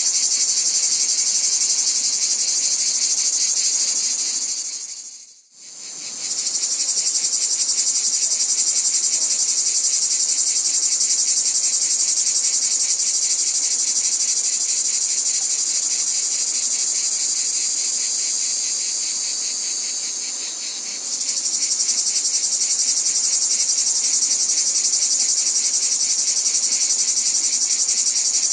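A chorus of crickets trilling in a steady, rapid, high-pitched pulse. It fades almost to nothing about five seconds in and comes straight back, with a brief slight dip about twenty seconds in.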